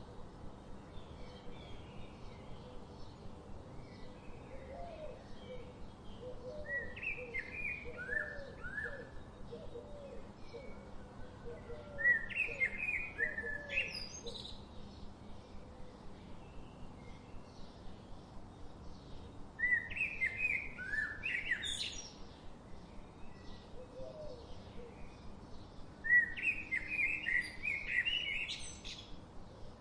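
A songbird singing: four repeated song phrases about six seconds apart, each a run of chirpy notes that ends in a quick rising note, with softer lower chirps in between over a faint steady outdoor hiss.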